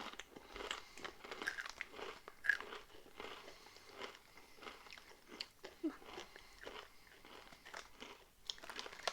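Close-up crunching and chewing of Volcano Takis, rolled tortilla chips, with irregular crisp crunches throughout and a louder crunch about two and a half seconds in.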